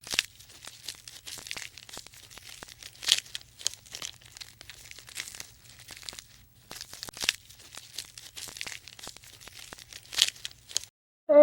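Irregular crunching and rustling: many short crackles and clicks at uneven intervals over a faint low hum, ending abruptly near the end.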